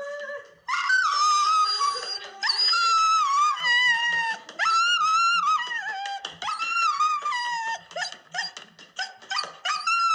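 A puppy howling: a run of long, high, wavering cries of a second or two each, breaking into shorter yelps near the end.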